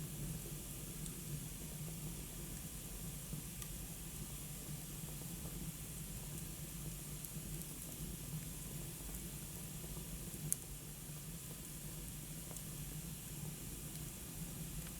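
Wood fire burning in a fireplace: a steady hiss with a few faint crackles and one sharper pop about ten seconds in.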